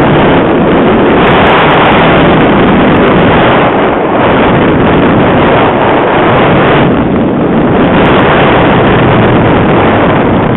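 Heavy gusting wind buffeting the microphone: a loud, steady rushing that eases slightly a few times.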